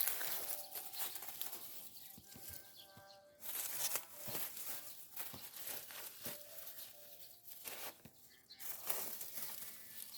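Rustling and crinkling of dry plant foliage being handled, in short irregular bursts, with a few faint pitched calls in the background.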